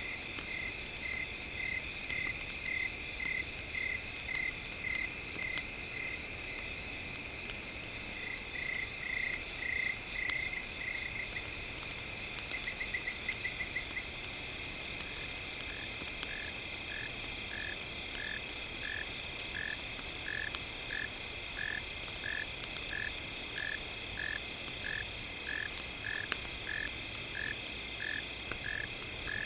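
Night chorus of insects trilling steadily at a high pitch, with a frog calling in evenly repeated notes: quicker at first, a rapid trill around the middle, then a slower regular series of about one and a half calls a second. Faint scattered crackles sit underneath.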